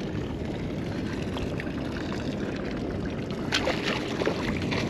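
Water splashing and trickling over a steady low rumble, with a few sharper splashes near the end, as a hooked trout is worked at the surface beside the boat.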